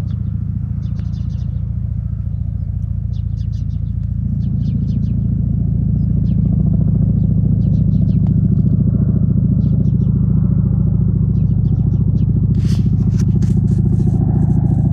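Chinook tandem-rotor helicopter running, its rotors beating with a fast even pulse over a low engine drone, growing louder a few seconds in. A brief hiss comes near the end.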